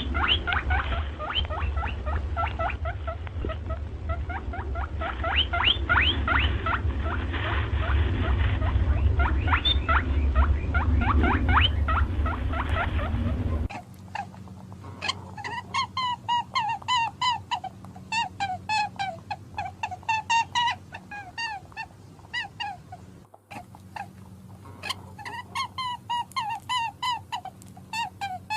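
Animal calls from two recordings: first a dense run of short squealing calls over a strong low rumble, then, after a cut about 14 seconds in, a quieter series of rapid, repeated pitched calls.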